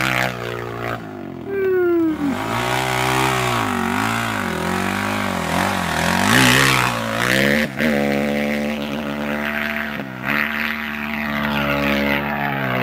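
Honda 450 motocross bike engine running hard through the sand, its pitch rising and falling repeatedly as the throttle is worked, with a short dip and falling whine about a second in and brief throttle cuts later on. Wind rushes over the microphone.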